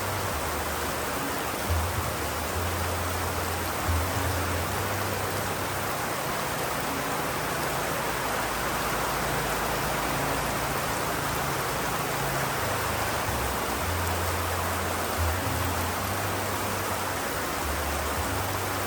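Steady rain hiss, even and unbroken, with a low rumble underneath that comes and goes several times.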